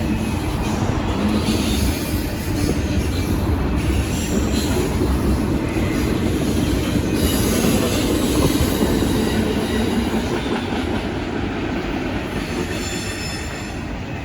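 Freight train cars rolling past: a steady rumble and clatter of steel wheels on rail, with a thin high wheel squeal near the end.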